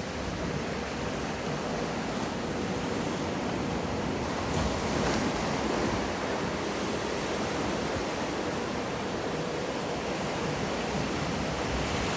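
Wave-pool waves breaking and washing, a steady rush of water that swells a little about four to five seconds in.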